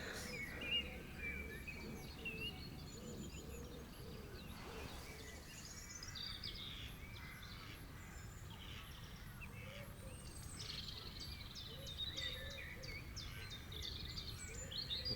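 Quiet outdoor ambience of small birds chirping and singing in short repeated calls, busiest near the end, over a low steady rumble.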